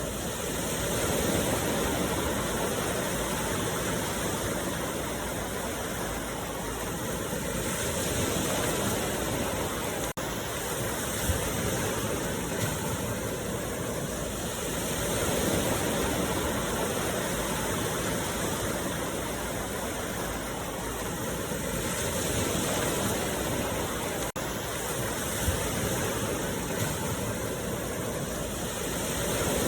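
Ocean waves breaking and washing on a beach, a continuous surf that swells and eases about every seven seconds. There are two momentary dropouts in the sound.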